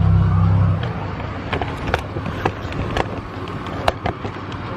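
Vehicle engine rumbling, loudest in the first second, then settling to a steadier low rumble with a few sharp clicks scattered through it.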